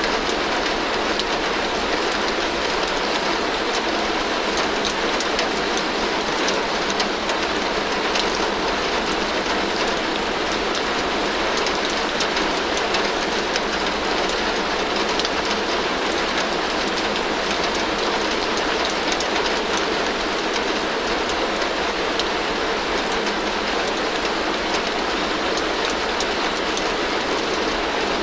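Heavy rain falling steadily on a tin roof: a dense, even patter of drops on metal that does not let up.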